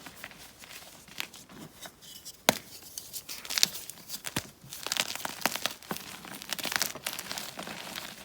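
Plain gym chalk blocks crunching and crumbling as they are broken up: a run of dry crackles and crisp snaps, with one sharp snap about two and a half seconds in.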